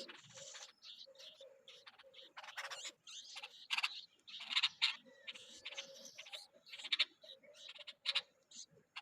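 Bulbul chicks calling: many short, harsh, high-pitched calls in quick succession, the loudest about halfway through.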